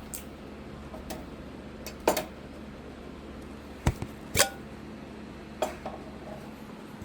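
A few separate light knocks and clinks of a cup being handled against a water dispenser, one with a short ringing tone, over a steady low hum.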